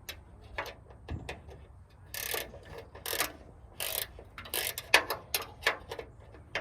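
Ratchet wrench clicking in short strokes as a nut is tightened on a bolt. The strokes come about a second apart, then faster near the end.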